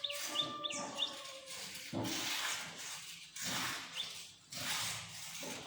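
Slow, deep breaths drawn in and let out, each a long, soft rush of air about a second long. Small birds chirp in the background, several short chirps in the first second and one more about four seconds in.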